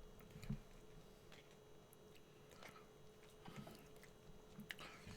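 Near silence: faint room tone with a few small clicks.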